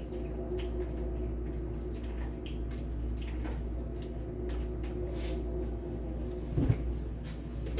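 Hamburger Helper simmering in a pan while being stirred with a spoon: scattered soft scrapes and wet squishing over a steady hum, with one louder knock about six and a half seconds in.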